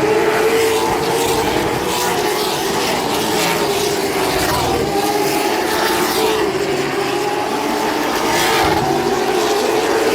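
Race car engines running at speed around an oval track, a steady wavering drone with cars sweeping past louder about four and eight seconds in.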